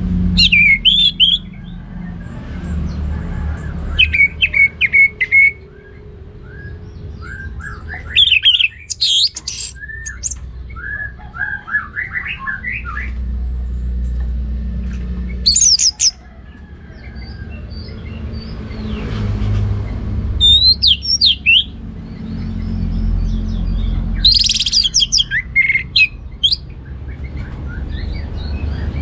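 Orange-headed thrush singing: short bursts of quick, varied whistled notes and slurred glides, about seven phrases separated by pauses of a second or more. A steady low rumble runs underneath.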